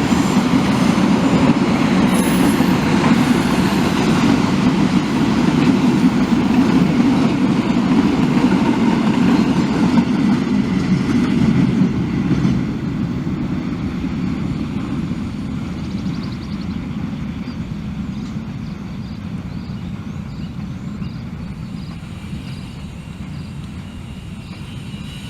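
A train running past with a steady low rumble, which fades gradually from about halfway through as the train moves away.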